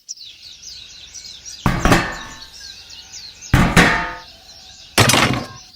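Three sharp knocks about a second and a half apart, each ringing briefly, like hammer strikes. Birds chirp faintly behind them during the first half.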